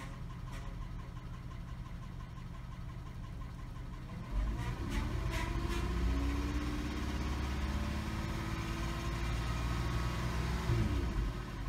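Volkswagen Routan minivan engine running steadily at idle. About four seconds in, a louder hum comes in and rises in pitch, then drops away shortly before the end, with a few light clicks.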